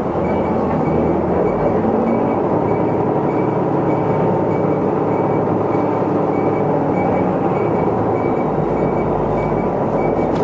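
Isuzu Erga Mio city bus heard from inside the cabin while driving: the diesel engine and road noise make a steady, loud rumble that swells slightly at the start as the bus picks up speed. A faint high beep repeats about twice a second throughout.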